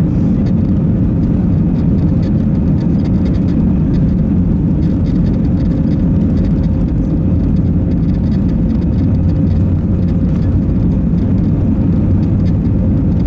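Steady cabin noise of an Airbus A320 at takeoff power: a deep, even engine and airflow rumble with a thin steady hum above it.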